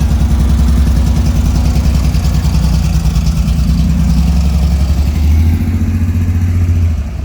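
A car engine running close by with a deep, pulsing throb. Its pitch steps up and down a couple of times as the revs change.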